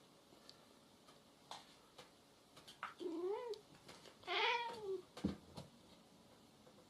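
A cat gives two drawn-out yowls, each rising and then falling in pitch, the second louder; a couple of sharp knocks follow.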